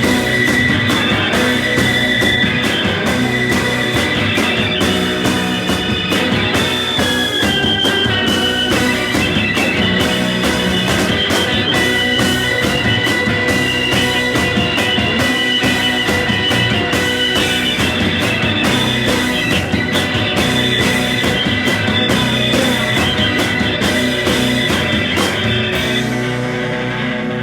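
Live rock band playing an instrumental stretch of a psychedelic garage-rock song, with electric guitars over a driving drum kit. Near the end the drums stop and the guitar chords are left ringing.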